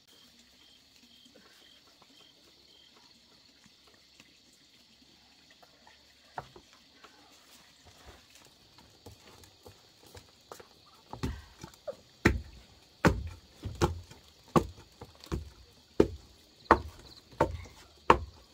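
Repeated heavy thuds, one steady blow about every 0.7 seconds, beginning a little past halfway after a quiet stretch.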